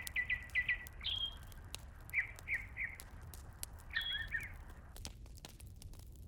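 Small birds chirping in quick groups of short notes over a steady hiss, which stops about five seconds in. Faint sharp clicks are scattered throughout.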